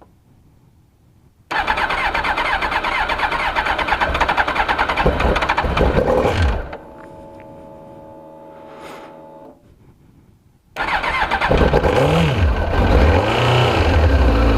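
2002 Suzuki GSX-R1000's inline-four being cranked on its electric starter for its first start after fuel-system cleaning: a first crank of about five seconds that does not catch, then a steady fuel-pump whine, then a second crank on which the engine fires, revs up twice and settles into a steady cold idle.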